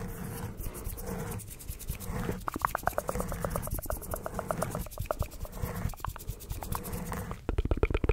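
Close-miked ASMR mouth sounds: rapid wet clicking and smacking in quick runs, growing faster and louder near the end.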